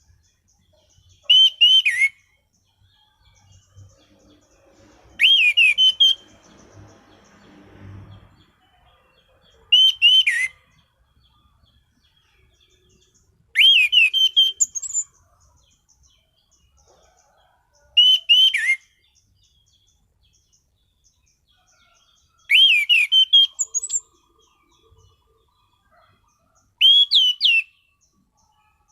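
An orange-banded thrush (anis cendana) singing in loud, short phrases of sharp whistled notes that sweep down in pitch, seven phrases about four seconds apart.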